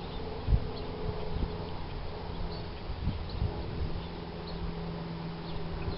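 An insect buzzing steadily, with a few soft low thumps.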